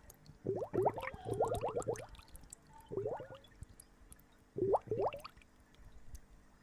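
Water gurgling in short bubbling bursts, each made of quick upward-sliding bloops: one cluster in the first two seconds, a shorter one about three seconds in, and another about five seconds in.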